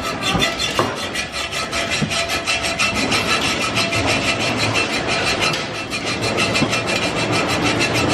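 Steel exhaust pipe under the car being cut or ground away by a tool, a steady, fast run of many strokes a second.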